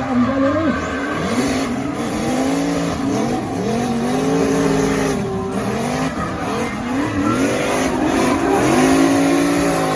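A car engine revving hard again and again, its pitch climbing and dropping back about once a second, as in a car being driven hard.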